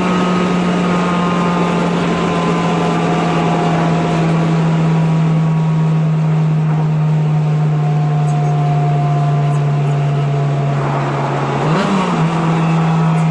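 Honda S2000 AP1's F20C four-cylinder engine through a Mugen exhaust manifold and Spoon N1 exhaust, droning at steady cruising revs that sink very slowly. Near the end a quick throttle blip pushes the pitch up and back, settling at slightly higher revs.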